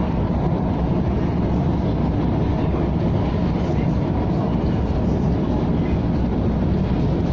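KTM ETS electric train running at steady speed: a continuous, even rumble.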